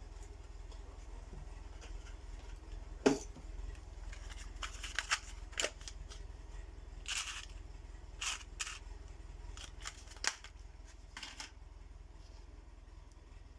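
Small handling noises of fishing tackle being put together by hand: scattered sharp clicks and short rustles, the loudest a single click about three seconds in, over a low steady hum.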